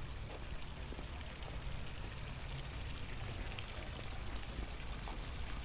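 A stream's water running steadily, an even rushing hiss, with a low rumble underneath.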